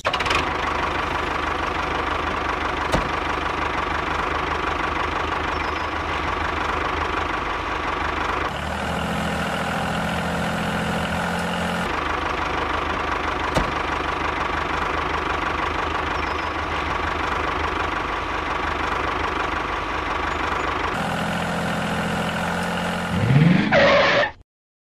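Tractor engine running steadily at idle with a knocking clatter, its tone shifting a few times; near the end it revs up in a short rising sweep, louder, then cuts off suddenly.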